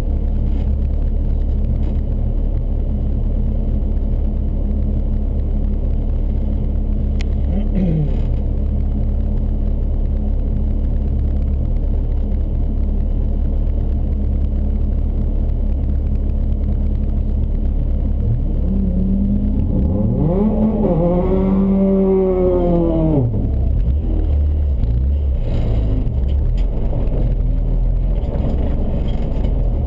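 Car engine running steadily at a low, even pitch, then revved up and back down for a few seconds about two-thirds of the way through.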